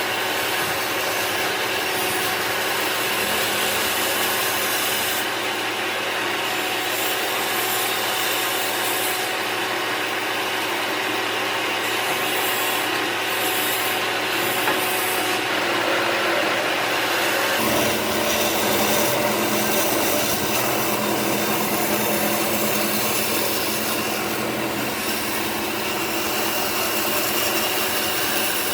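A tool working old wood, a steady scraping, rasping noise with no breaks; the sound deepens a little about two-thirds of the way through.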